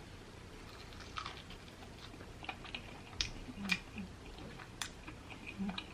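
A person chewing a crispy fried chicken wing close to the microphone: faint, scattered crunches and mouth clicks, about half a dozen sharp ones spread through.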